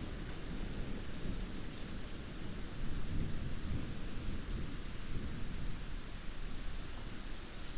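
Heavy rain falling steadily, an even hiss over a continuous low rumble.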